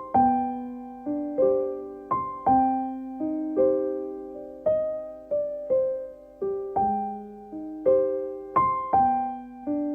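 Background music: a slow, gentle solo piano piece, with single notes and chords struck about once or twice a second, each fading away.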